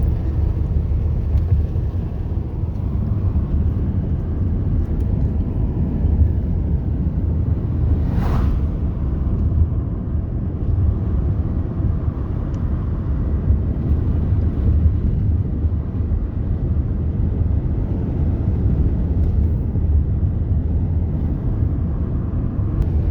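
Steady low road and engine rumble inside a car driving uphill, with one short burst of noise about eight seconds in.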